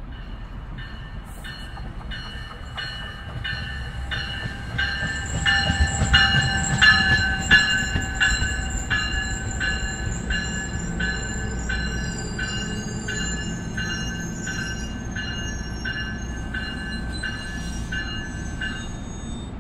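A passing train with its locomotive bell ringing in a steady, quick rhythm over the train's rumble, loudest about six to eight seconds in. A thin, high wheel squeal comes in partway through.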